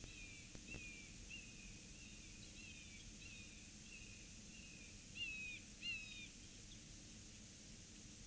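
A bird calling faintly: a steady series of short, high, down-slurred notes, about one and a half a second, with two louder notes near the end before the calling stops.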